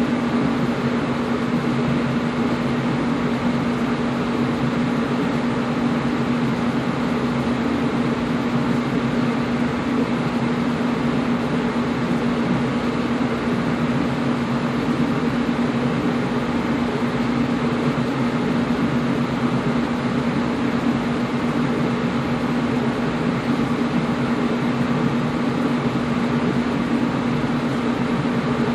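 Air conditioner running steadily: an even whoosh of blowing air over a low, constant hum.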